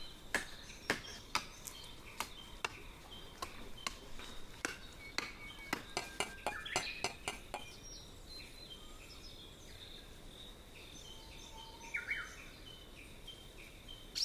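Irregular sharp clicks and clinks of small hard objects knocking together, densest over the first half and sparser after, with birds chirping in the background.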